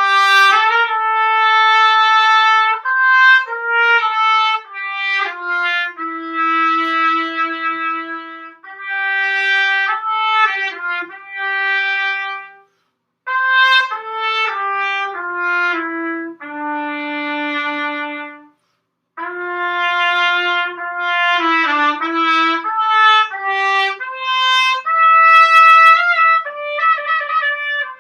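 Unaccompanied trumpet playing a lyrical melody of held and moving notes in phrases, with short pauses for breath about 13 and 19 seconds in. The playing is easy and free, with no sign of stiffness in the player's lips after a heavy day of playing.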